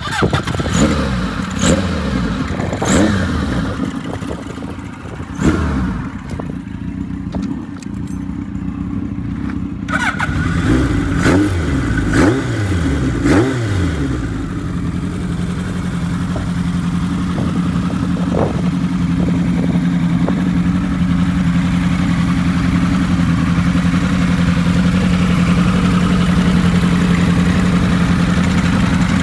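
Kawasaki KZ1100R's air-cooled inline-four, bored out to 1135cc and fed by Yoshimura TMR 36 mm carburettors, catching and running. It is revved up and down repeatedly through the first half, then settles into a steady idle.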